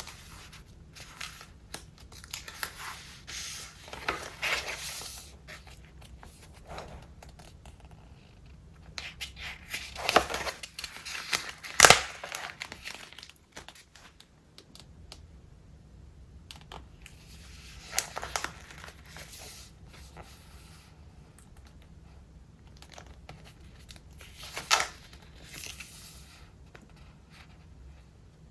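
Pages of a thick, collaged Traveler's Notebook being turned one after another: irregular rustles and crinkles of stiff paper and stuck-on papers, with a sharp click a little before midway.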